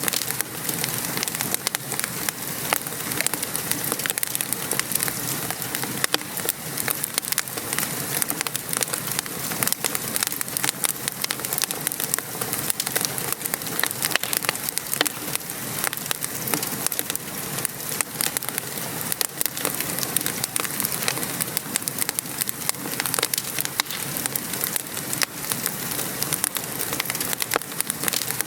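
Gentle rain falling steadily, mixed with a wood fire crackling in a fireplace: a constant hiss dotted with many small sharp pops throughout.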